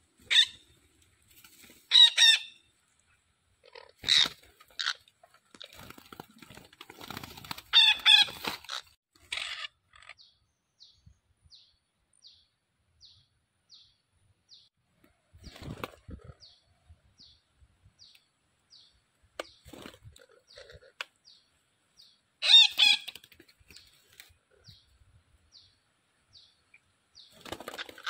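Birds calling: loud, harsh pitched calls every couple of seconds in the first ten seconds and again near the end, with a long string of short, high chirps, about two a second, in between. A few soft thumps.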